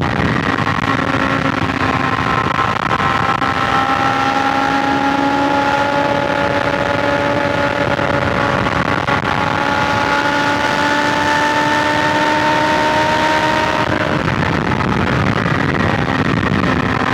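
BMW S1000XR inline-four engine pulling at highway speed under wind and road noise. Its note rises slowly and steadily, then changes abruptly about three-quarters of the way through.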